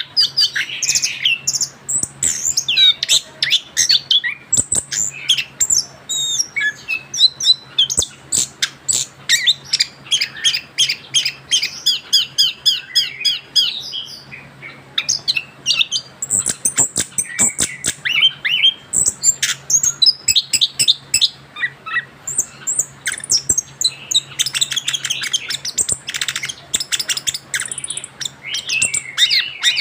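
Young male orange-headed thrush singing a long, near-continuous run of rapid, varied notes in full song after its moult, with a short break about halfway through.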